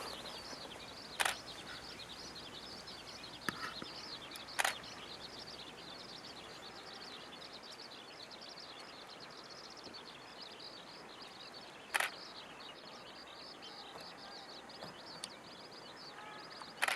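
Faint outdoor background of continuous high, dense chirping, broken by a few short sharp clicks: about a second in, twice around four seconds, once near twelve seconds and once near the end.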